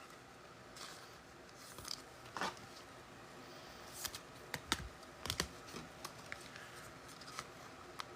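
Faint scattered clicks and soft rustles of trading cards and a foil card pack being handled and opened, with a handful of sharper taps around the middle.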